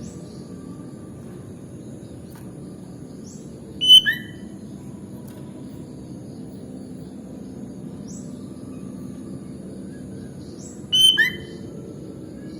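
Sooty-headed bulbul calling: two short phrases of quick whistled notes about seven seconds apart, the loudest sounds here, over steady low background noise and faint high chirps.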